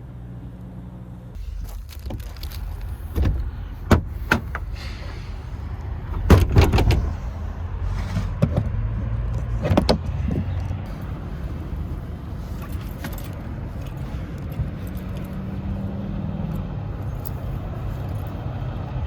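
Steady low rumble of idling trucks at a truck stop, with a series of sharp knocks and clicks over the first half, like someone moving about and handling gear in a pickup bed.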